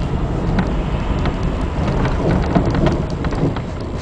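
Rain and water noise heard from inside a car in traffic on a flooded street: a steady hiss with scattered sharp ticks, over the low rumble of the car.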